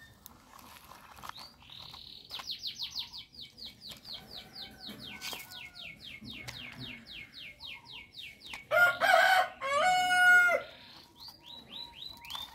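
Birds calling: a long run of rapid, high repeated chirps, then a loud two-part crow about nine seconds in, the loudest sound, and more chirps near the end.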